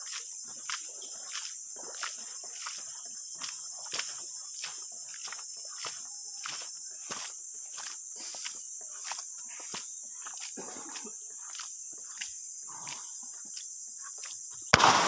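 Steady high-pitched chorus of insects, with a soft regular tick about one and a half times a second. A loud knock near the end.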